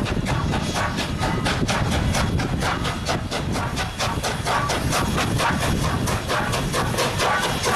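Steam locomotive Canadian National 89, a 2-6-0 Mogul, running with its train: a rapid, even beat of about five strokes a second over a heavy low rumble.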